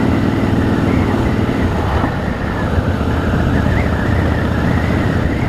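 Harley-Davidson Rocker C's V-twin engine running steadily at road speed, with wind rushing over the microphone.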